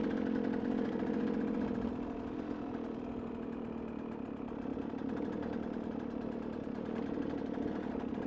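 KTM motorcycle engine running at a steady, even pitch while the bike is ridden, easing slightly about two seconds in.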